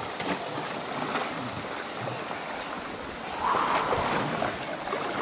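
Water lapping and sloshing around a sea canoe being paddled, with a louder splash about three and a half seconds in, typical of a paddle stroke.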